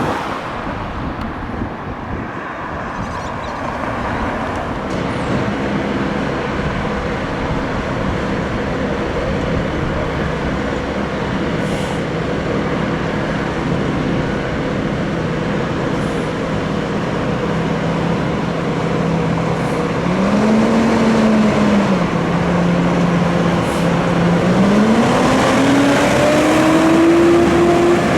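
Fire engine's diesel engine running steadily; about 20 seconds in its note rises and falls once, then near the end it revs up in a long steady climb before dropping off.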